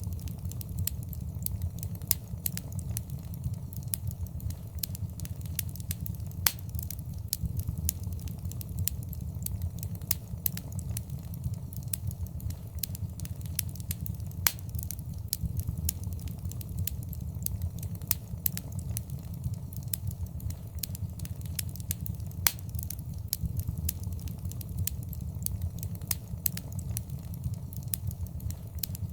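Wood fire burning in a fireplace: frequent sharp crackles and pops, a few louder than the rest, over a steady low rumble of flames.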